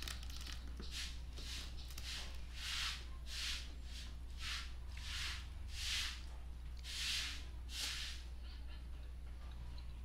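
Close-up mouth sounds of chewing a hand-fed mouthful of rice and fried fish: about a dozen short, wet chewing noises, roughly two a second, stopping near the end, over a low steady hum.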